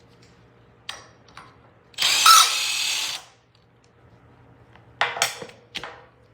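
A power tool with a 12-point socket runs for about a second, spinning a wheel stud out of a Wilwood brake hub. Light metal clicks and clinks come before and after, as the socket is fitted and the stud comes loose.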